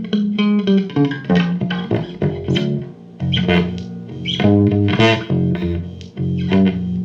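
A bass guitar played with plucked notes in a loose run of phrases, some notes sustained and some quick.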